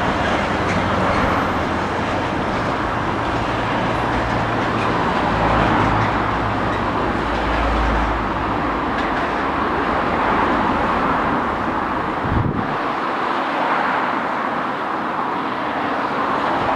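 Container wagons of a long freight train rolling past on the rails, a steady wash of wheel and rail noise. The low hum under it drops away suddenly about twelve seconds in, near the end of the train.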